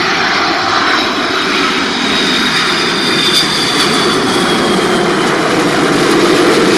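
Airbus A330-300 airliner's jet engines on landing approach, passing low overhead: loud, steady jet noise with a thin high whine that slowly falls in pitch.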